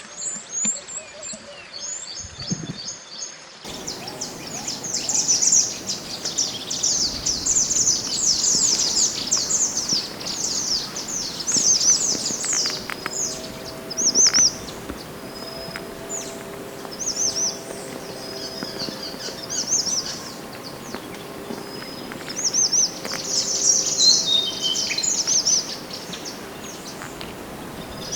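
Mantenan gunung, a wild mountain songbird, singing rapid bursts of high, thin chirping phrases, densest in the first half and again a little before the end. A faint steady hum sits under the song in the second half.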